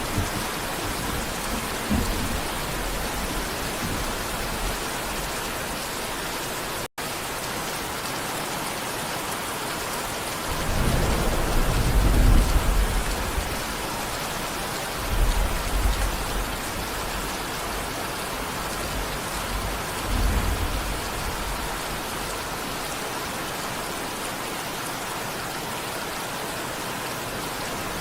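Steady rain falling, with deep rolls of thunder: the longest and loudest about eleven to thirteen seconds in, shorter ones near fifteen and twenty seconds. The sound cuts out completely for an instant about seven seconds in.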